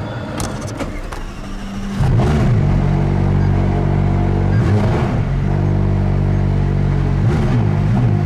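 McLaren 620R's twin-turbo V8 cold-starting: a few clicks, then the engine catches about two seconds in and runs loud, with its revs briefly rising and falling a few times.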